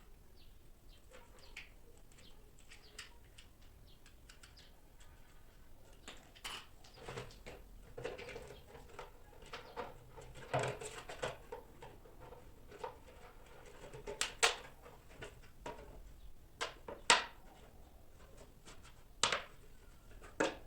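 Scattered clicks, taps and knocks, sparse at first and busier in the second half, with a few sharper knocks.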